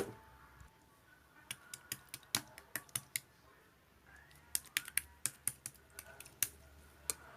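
A sharp click, then faint, irregular light clicks in two loose clusters, with a short pause between them.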